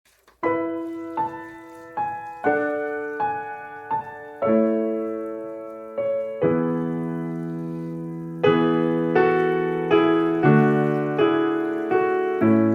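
Background piano music: a slow, gentle melody of single notes, each ringing out and fading, with fuller chords joining about halfway through.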